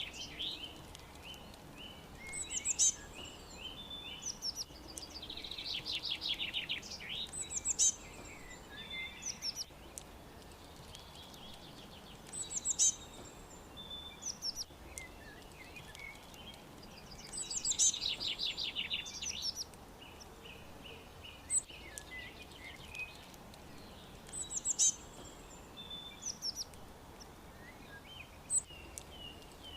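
Songbirds singing: a fast, dense trill of about a second and a half comes every several seconds, and short high chirps repeat roughly every five seconds, over a steady background hiss.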